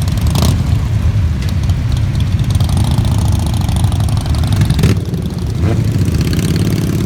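A stream of motorcycles riding past one after another, their engines running in a loud, continuous mix, with a couple of brief sharp sounds about half a second and five seconds in.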